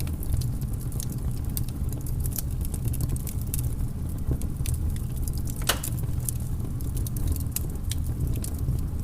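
Wood fire crackling in a fireplace: irregular sharp pops and snaps over a steady low rumble, with one louder pop a little past halfway.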